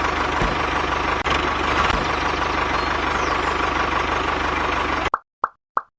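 Small engine of a home-built mini tractor running steadily. About five seconds in it cuts off abruptly, and a run of short plops follows, about three a second.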